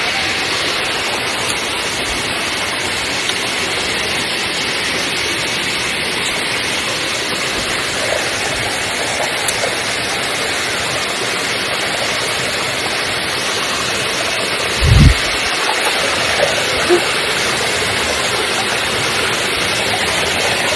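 Waterfall rushing steadily, a dense constant roar of falling water. About 15 seconds in there is a brief deep thump.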